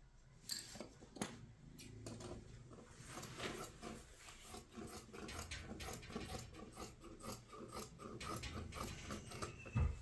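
Small objects being handled: irregular rubbing and scraping with many small clicks.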